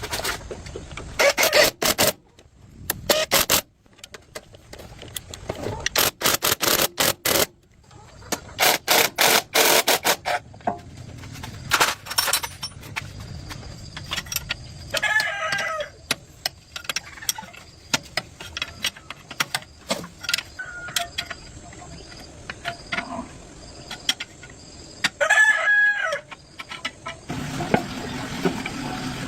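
Runs of rapid sharp knocks in the first ten seconds, then a rooster crowing twice, about halfway through and again near the end. A low steady hum starts just before the end.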